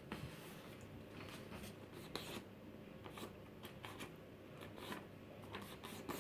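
A sheet of paper being folded and creased by hand: faint rustling and crinkling, with a sharper crackle about two seconds in.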